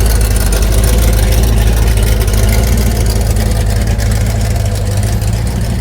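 A classic car or truck engine running at low speed, with a loud, deep, steady exhaust rumble that eases a little near the end.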